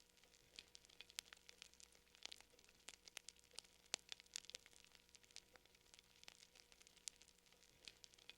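Wood fire crackling: faint, irregular sharp crackles and pops, several a second, with one louder pop about four seconds in.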